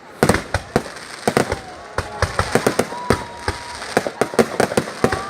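Fireworks bursting in quick, irregular succession: a dense run of sharp bangs and crackles.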